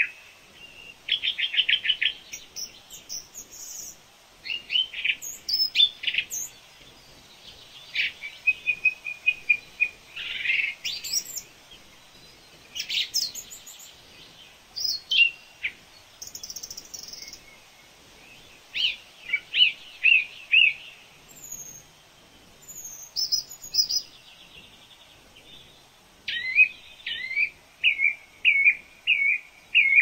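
Wild birds singing and calling: a busy run of short chirps, whistled notes and quick trills, one after another with short gaps.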